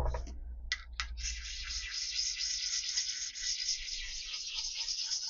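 Metal base plate being hand-scraped flat with a scraper ground from an old file: two short scrapes, then a steady scratchy hiss of metal on metal from about a second in.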